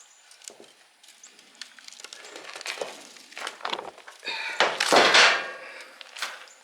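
Copper phase-coil windings being worked loose and pulled out of an electric motor's stator: scattered clicks and rustling scrapes of wire and insulation, with one louder scraping rush about five seconds in.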